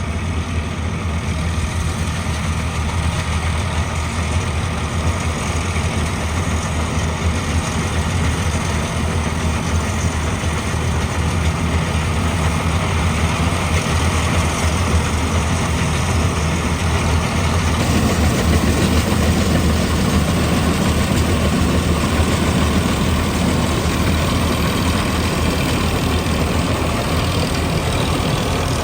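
Harvester's engine running steadily. About two-thirds of the way through it turns a little louder and fuller.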